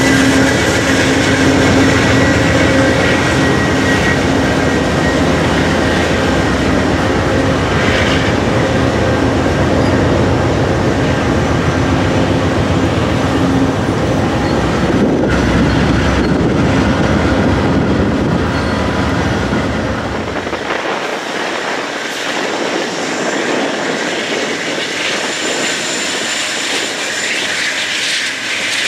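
A train running past on the track, a loud steady rumble of rail cars with a few steady ringing tones over it; the low rumble falls away about twenty seconds in, leaving a higher hiss.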